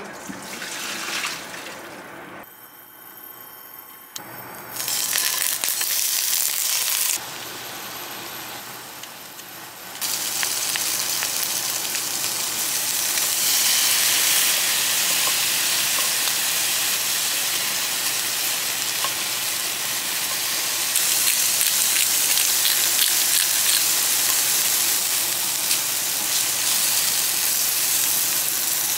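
Shrimp and minced garlic frying in oil in a wok, a steady sizzle that settles in about ten seconds in, as the shrimp are stirred and turned.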